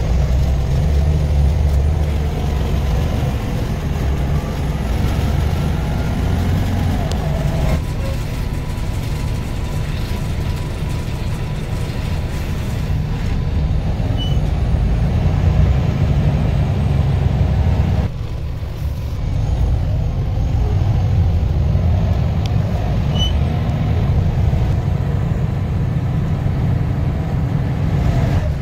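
Steady low rumble of a moving public-transport vehicle heard from on board. The sound changes abruptly about 8 and again about 18 seconds in.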